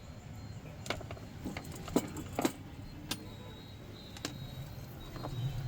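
Irregular sharp metal clinks and taps, about seven of them and loudest around the middle, as pressure cooker parts or tools are handled, over a steady low hum.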